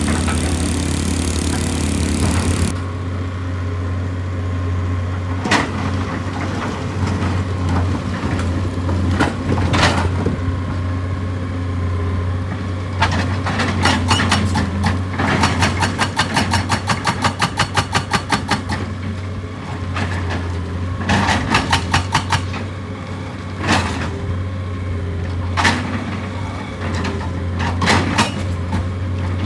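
Heavy excavator's diesel engine running steadily, with sharp knocks on rock and, in the middle, a fast run of hammer blows about five a second, then a shorter run of blows.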